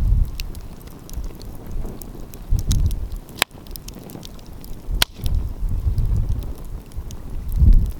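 Wood fire crackling with scattered small ticks and two sharp pops, about a second and a half apart near the middle. Low gusts of wind rumble on the microphone off and on.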